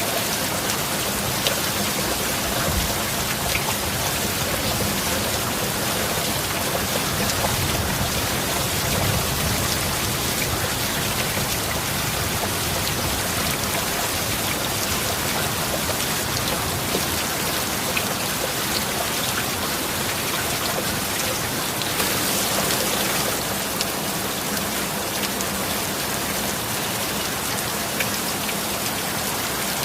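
Steady heavy rain falling, a dense hiss with individual drops ticking through it, swelling briefly about 22 seconds in.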